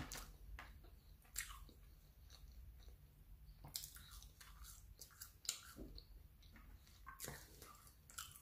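Faint chewing of McDonald's french fries, with irregular soft mouth clicks and crunches.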